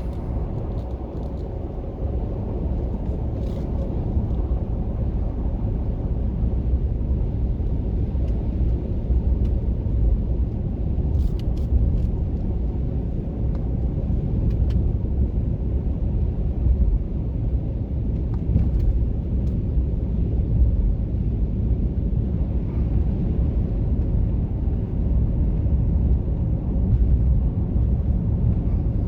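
Steady road rumble and engine drone heard from inside the cab of a pickup truck driving on a wet, snowy highway in four-wheel drive.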